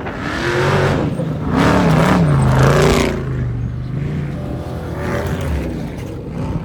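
Off-road race vehicle's engine revving hard as it passes at speed, its pitch rising and falling, loudest about two seconds in, then running on more steadily as it moves away.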